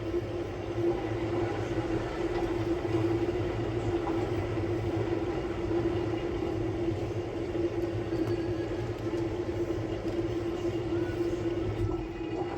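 Samsung Bespoke Grande washing machine running a quick-wash cycle: a steady motor hum with one constant tone over a low rumble.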